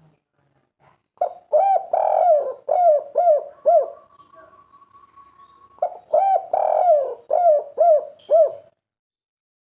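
Spotted dove cooing: two phrases of quick, repeated coo notes, each lasting about three seconds, with a short pause between them.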